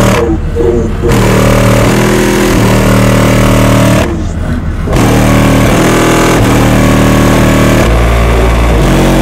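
Bass music played very loud through a car audio system: four Fi BTL N2 15-inch subwoofers in a wall, on two Crescendo BC5500 amplifiers. It holds long bass notes that step from pitch to pitch, with two brief dips in level, about half a second in and about four seconds in.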